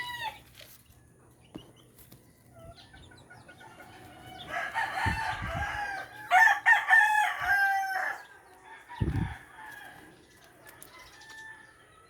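Rooster crowing once, a long call of about three to four seconds in the middle, with a couple of low thumps around it.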